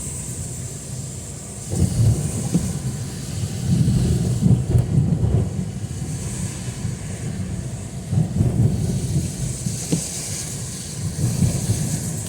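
Steady hiss of heavy rain, with low rumbling gusts of wind buffeting the microphone every few seconds.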